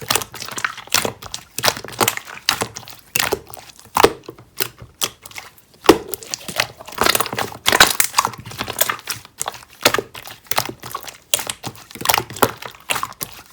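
Close, irregular crinkling and crackling of something being handled and squeezed, in quick clusters of sharp crackles with no steady rhythm.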